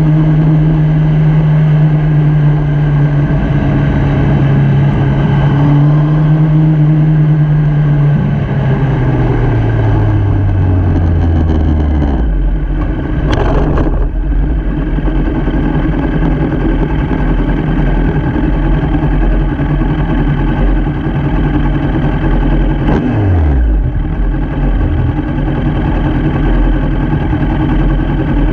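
Motorcycle engine running under a steady rushing noise. About eight seconds in, the engine note falls steadily over a few seconds as the bike slows, and it drops again briefly later.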